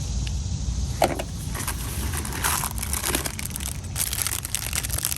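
Plastic packaging crinkling and rustling in irregular bursts as small accessories are handled and unwrapped, starting about a second in.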